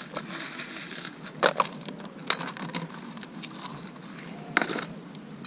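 Small candies and sprinkles pattering onto a tinfoil pie pan of toppings: scattered light clicks, a few sharper ones.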